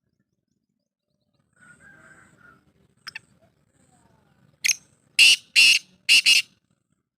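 Black francolin calling: a quick run of about five loud, harsh notes near the end, after a faint rustle and a couple of clicks.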